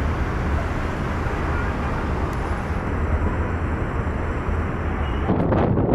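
Steady low rumble of engine and traffic noise outdoors, with wind starting to buffet the microphone about five seconds in.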